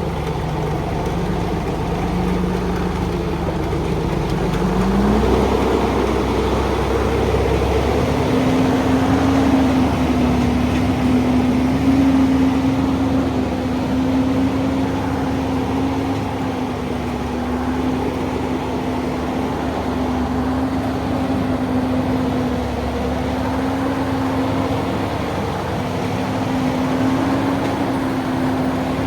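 Old truck's engine running steadily. About five seconds in its pitch rises, and from about eight seconds it holds at the higher engine speed.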